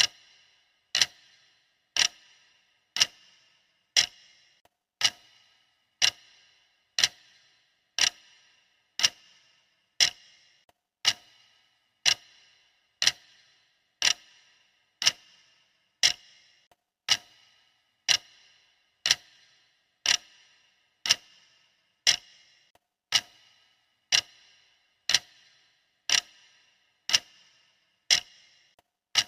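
Clock ticking steadily, one sharp tick each second with a brief metallic ring after each.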